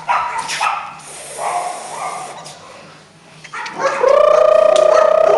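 Beagle puppies yipping and whimpering in short cries, then about four seconds in one gives a long, loud, steady whining cry.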